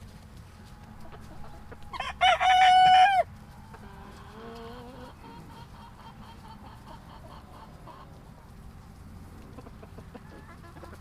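A rooster crows once, loudly, about two seconds in, a short call held on one pitch. Afterwards hens cluck softly.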